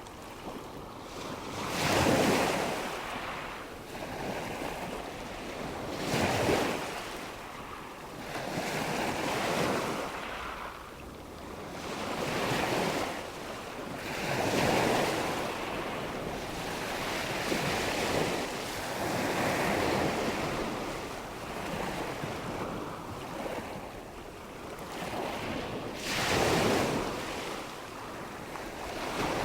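Nature-sound ambience of rushing water and wind: a steady wash that swells up and fades back every few seconds, with no voice or music.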